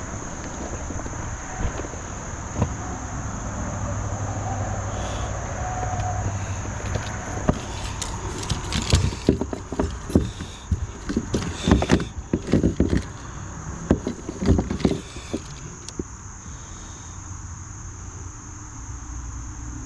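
Steady high-pitched insect drone, with a run of sharp knocks, clicks and rustles from about eight to fifteen seconds in.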